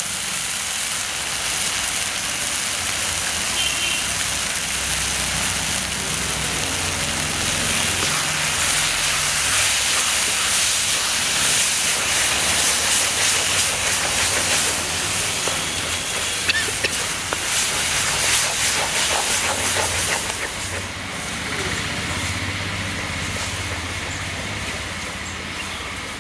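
Tomato and onion masala sizzling in hot oil in an aluminium pan as spice powders are stirred in, with a wooden spatula scraping and stirring through it. The sizzle is loudest in the middle and eases off over the last few seconds.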